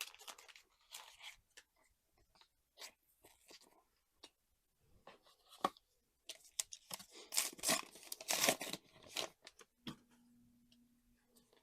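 Foil trading-card booster pack wrapper being torn open and crinkled, with scattered clicks of card handling; the densest, loudest run of crackling tearing comes about seven to nine seconds in.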